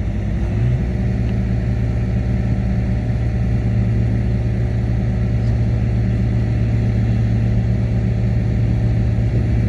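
Heavy diesel earthmoving machine's engine running steadily with a low drone, its note stepping up slightly about a second in.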